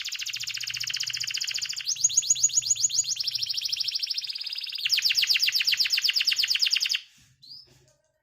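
Canary singing: four rapid trills of quickly repeated high notes, each at a different pitch, running straight into one another. The song stops abruptly near the end, followed by one short rising chirp.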